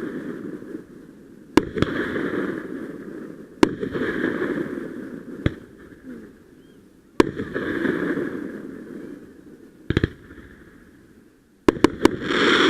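Aerial fireworks going off: sharp bangs every couple of seconds, each trailing off over a second or two, with three bangs in quick succession near the end.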